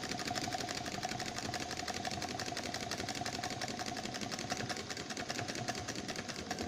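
Home-built steam engine running with a fast, even clatter over a steady hum.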